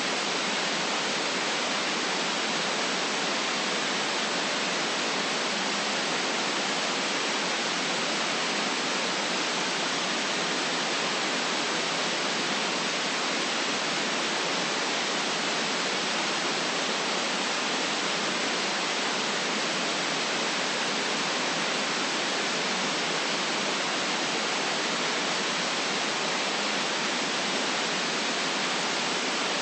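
White noise: a steady, even hiss that does not change, with little deep bass in it.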